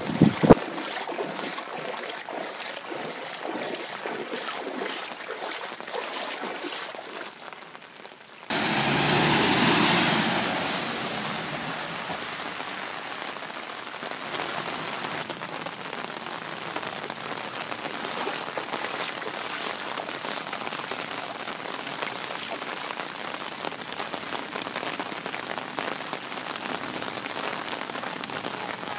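Heavy rain pouring down in a steady hiss of drops. About eight seconds in it suddenly gets much louder, then eases back over the next few seconds to a steady downpour.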